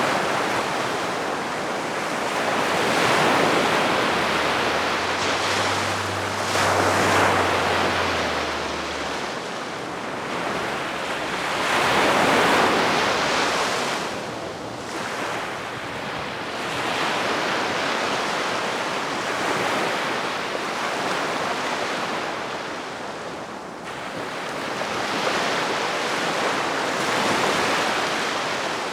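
Gentle sea waves breaking and washing up on the shore, the surf swelling and fading every few seconds. A faint low hum sounds underneath from about four to nine seconds in.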